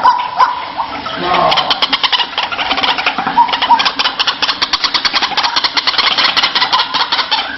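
White-breasted waterhen calling: a few short calls, then from about a second in a long, fast rattling series of pulses that runs on until near the end.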